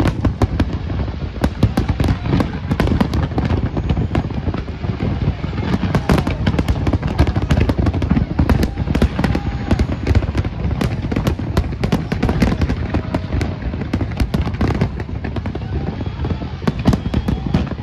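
Large aerial fireworks display: a continuous dense barrage of bangs and crackles over a low rumble, with no let-up.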